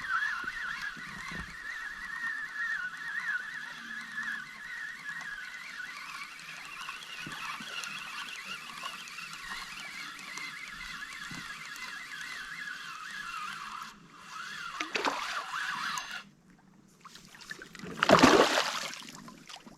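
A large flock of birds calling, many voices overlapping in a continuous chatter that stops abruptly about two-thirds of the way through. Near the end there is a loud, noisy rush lasting about a second.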